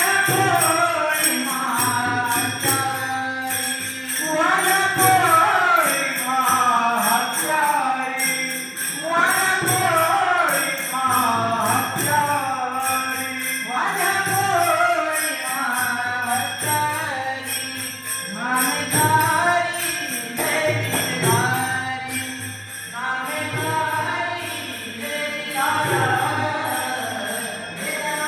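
A voice singing a melodic song in long phrases over steady rhythmic jingling percussion.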